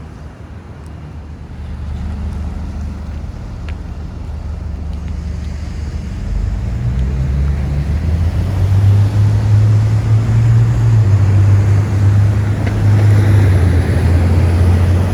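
A large vehicle's engine running close by: a deep, steady hum that grows louder through the first half and stays loud. Its pitch steps up slightly about halfway through.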